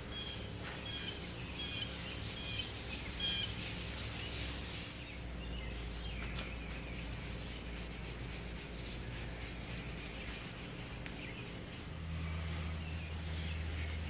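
A small bird chirping repeatedly, a little more than one short chirp a second for the first few seconds, then fainter calls, over a steady low hum that gets louder near the end.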